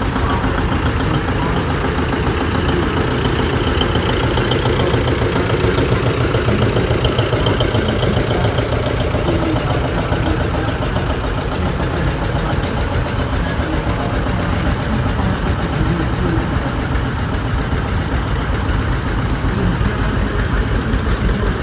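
Tractor engines running steadily, a dense, continuous low pulsing.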